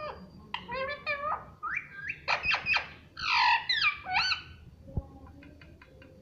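Ringneck parrot vocalizing in a run of high-pitched squawks and chirps, followed by a quick series of short clicks near the end.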